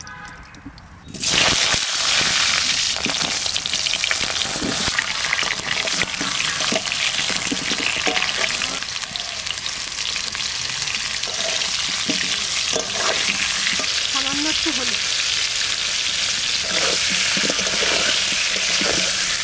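Halved potatoes sizzling loudly in hot oil in a karai (wok) over a wood fire, turned now and then with a metal spatula. The sizzle starts suddenly about a second in and then holds steady.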